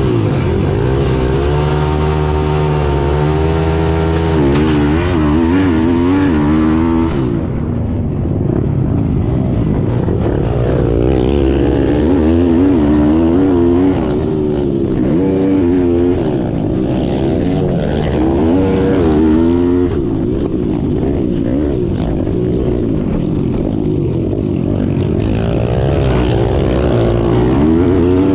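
Small single-cylinder pit bike engines at racing revs, their pitch climbing and falling again and again as they rev out, shift and back off.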